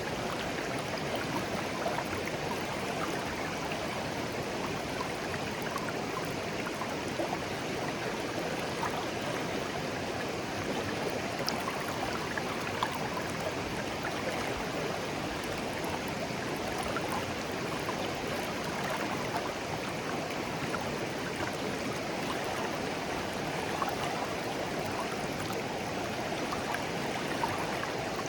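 A shallow stream of clear water flowing steadily, with a constant rush and small trickles and splashes over stones.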